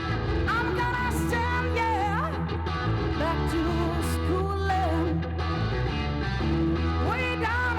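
Live rock band music: a lead melody with sliding, bending pitches over a steady bass.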